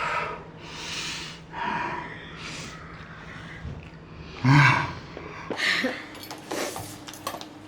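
Children's sniffing and sharp huffing breaths, a string of short noisy puffs with a louder voiced gasp about four and a half seconds in, the reaction to very spicy instant noodles.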